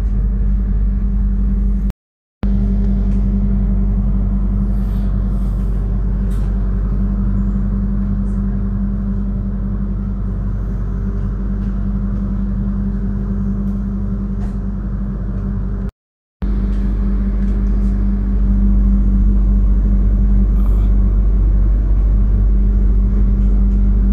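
Steady low hum and rumble inside a carriage of the Taksaka passenger train, with a held low tone. It cuts out twice for a moment and grows a little louder about three-quarters of the way through.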